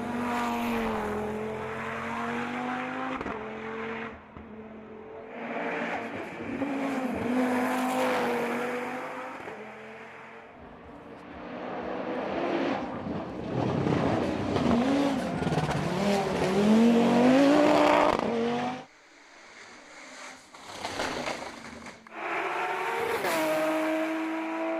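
Racing car engines driven hard up a hill climb, revs climbing and dropping through gear changes. Several short clips are cut together, with abrupt breaks about 4 seconds in, near the middle and a few seconds before the end.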